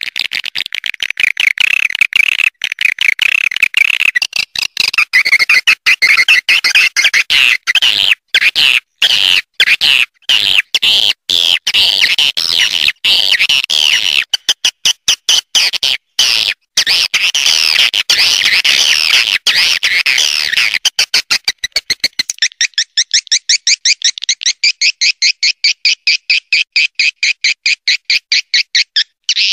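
Swiftlet lure call recording: a dense, loud twittering chatter of many swiftlets. About 22 seconds in it changes to a fast, evenly repeating series of short chirps, about five a second.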